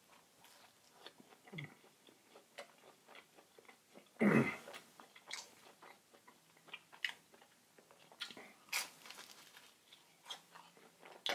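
Close-miked chewing and biting of crisp food, full of small crunches and wet mouth clicks. One louder mouth sound about four seconds in.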